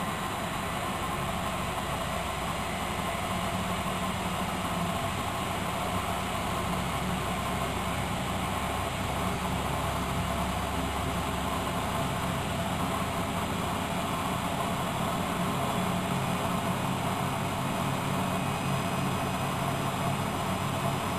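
Miele De Luxe Electronic W763 washing machine running steadily, a motor hum over an even whir. The lowest part of the hum shifts about halfway through.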